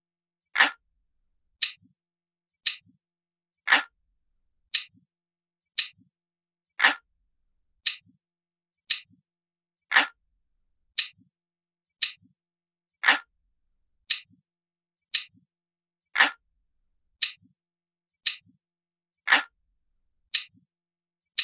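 Crisp, glass-like clock ticking, one tick about every second at a steady pace, with every third tick heavier and fuller.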